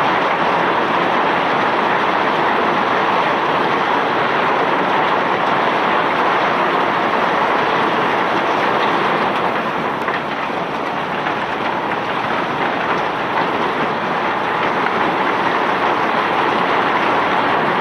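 Steady, dense rattling rush of iron ore and rock being discharged by a self-unloading barge's conveyor system, easing slightly about ten seconds in.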